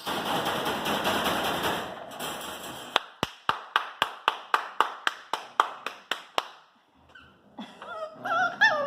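Bells shaken hard in a rattling jingle for about two seconds. Then a run of about a dozen sharp claps or bangs follows, about three a second, and stops abruptly. A voice begins near the end.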